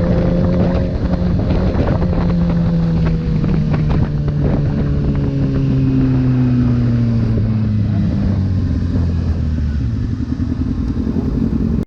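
Motorcycle engine running under wind buffeting on the helmet or camera microphone, its pitch falling slowly and steadily over about ten seconds as the bike slows; the sound cuts off abruptly at the end.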